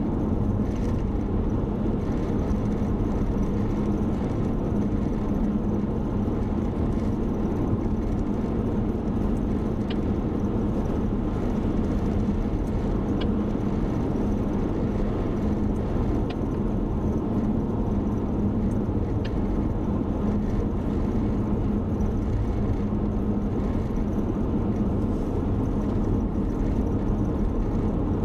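Steady engine and road drone of a car, heard from inside the cabin while cruising at an even speed, with a low hum throughout and a few faint ticks.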